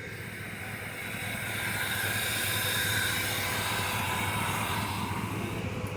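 Dodge Dakota engine idling with a steady low hum, under a broad hiss that builds over the first two seconds and eases off near the end.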